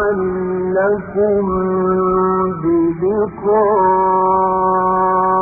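A man reciting the Quran in melodic tajwid chant, drawing out the word "la'allakum" with wavering ornaments before holding one long steady note. The recording is old and dull-sounding, with nothing in its top end.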